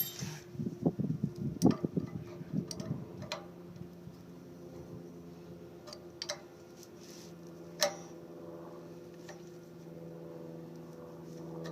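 Wrench and hand work on a hot water heater's fittings: scattered sharp metal clicks and taps, with a cluster of knocks and handling noise in the first few seconds, over a steady low hum.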